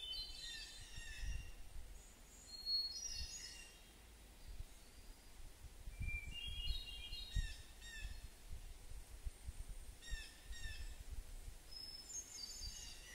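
Songbirds chirping in short, repeated phrases every couple of seconds, over a faint low rumble.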